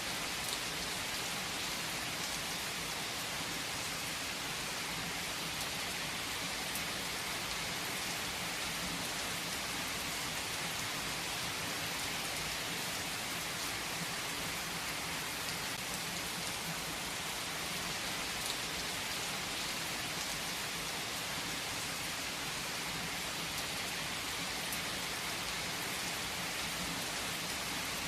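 Steady, even rain falling, with a dense hiss of drops and faint scattered individual drop ticks.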